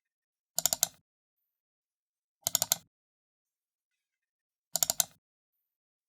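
Computer mouse button double-clicked three times, about two seconds apart; each double-click is a quick cluster of sharp press-and-release clicks.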